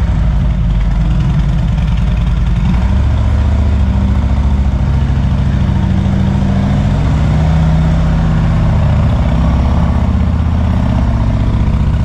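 Harley-Davidson Road King's V-twin engine running under way, its pitch shifting as the revs change, first about three seconds in and again later on.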